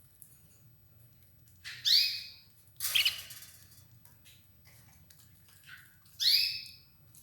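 Red ivory canary giving short loud calls: two clear calls about four seconds apart, a harsher, noisier chirp just after the first, and faint chirps in between.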